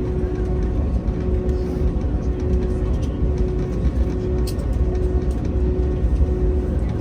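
Cabin noise inside an Airbus A321neo taxiing after landing: a steady low rumble with a constant hum running through it.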